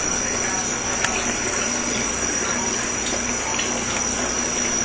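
Tap water running steadily into a sink during hand dishwashing, with one light knock about a second in.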